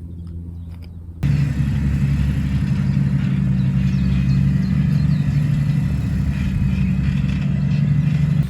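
A large farm tractor's diesel engine running close by, a steady low drone. It becomes abruptly much louder about a second in.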